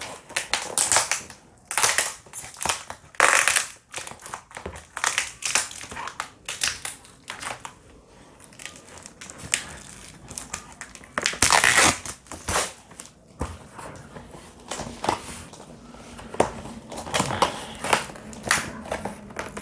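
Packaging being handled and unwrapped by hand: irregular crinkling and crushing rustles in quick, uneven bursts, the loudest about a second in, around three seconds in and near the middle.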